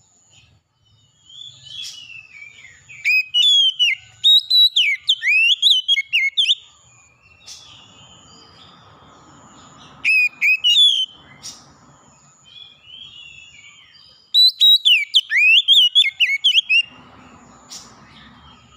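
Songbird singing clear, loud whistled phrases of quickly rising and falling notes, in several bursts with quieter gaps between.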